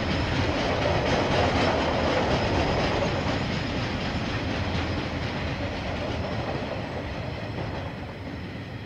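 KiwiRail freight train wagons rolling past, a steady rumble of steel wheels on rails with light clicks over the rail joints. The sound grows gradually fainter over the last few seconds as the train moves on.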